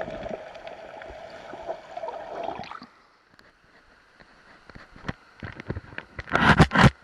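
River current heard through an underwater camera: a steady rushing, gurgling water noise that drops away suddenly about three seconds in. Scattered faint clicks follow, then two loud bursts of noise near the end.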